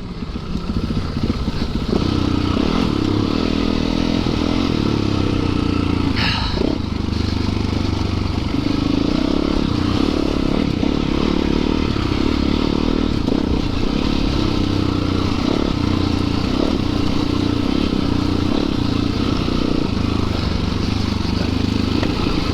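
Yamaha YZ450FX single-cylinder four-stroke dirt bike engine running at low, fairly even revs while riding, with some clattering from the bike over rough ground and a sharp clack about six seconds in.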